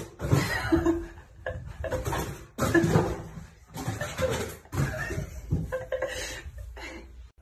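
A person laughing hard in repeated bursts, some with a held high-pitched note.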